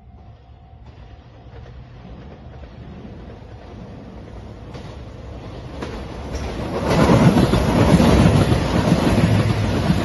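JR Shikoku 2700 series diesel limited express train approaching and passing close by. Its noise builds steadily over several seconds to a loud rush of wheel and engine noise about seven seconds in.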